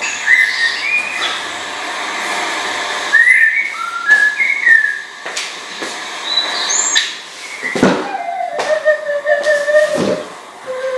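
A bird giving a series of short whistled calls that slide up and down, then a steep upward swoop and a long, wavering whistle near the end, with scattered clicks.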